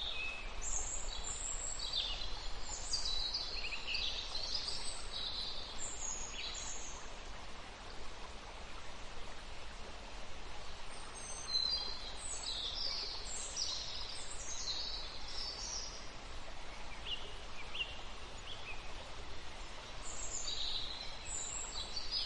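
Birds calling in short, high chirps that come in several bunches, over a steady hiss of outdoor background noise.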